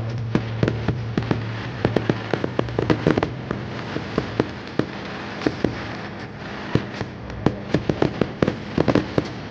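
Many fireworks going off together: a dense, irregular string of sharp bangs and pops, often several a second, over a continuous background of more distant bursts. A low steady hum runs under the first four seconds or so.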